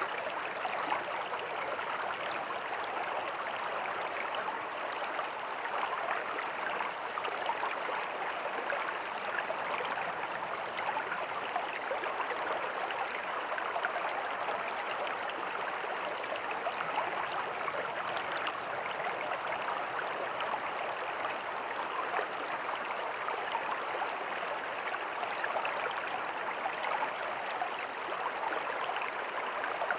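A small creek with a tiny waterfall: water flowing and splashing over rocks in a steady, even rush, with fine babbling detail.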